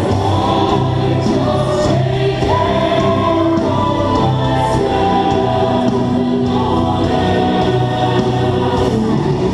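Music with a choir singing long held chords.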